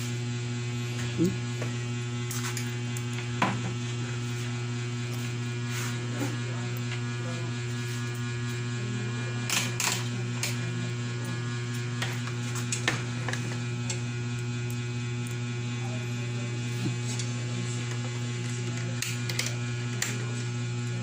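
Sakura AV-5023US amplifier giving a loud, steady mains hum, with a few short clicks and knocks from handling along the way. A hum like this is typical of a leaking or open filter capacitor in the power supply.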